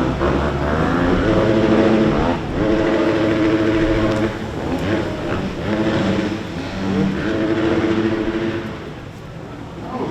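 Motorcycle engine revved and held at a steady pitch in four stretches of one to two seconds each, dropping back between them, as a rider works through a slow obstacle course.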